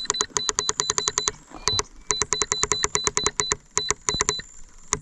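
Rapid, even mechanical clicking, about eight to ten clicks a second, in two runs with a short pause between, then a few scattered clicks near the end.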